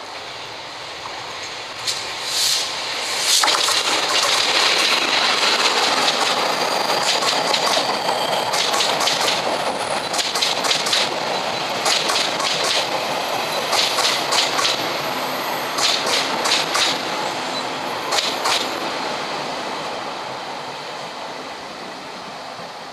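A train passing by. Its rumble builds about two seconds in, with clusters of clicks from the wheels running over rail joints, then fades away near the end.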